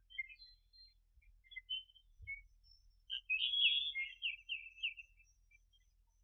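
Birds chirping and twittering in short scattered calls, with a louder run of quick repeated notes about three seconds in.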